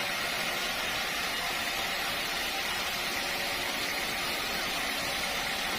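Sawmill machinery running with a steady, even noise and no distinct strokes or changes.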